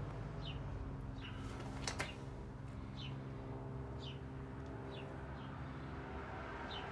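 A small bird chirping in short falling notes, about one a second, over a steady low mechanical hum. One sharp click comes about two seconds in.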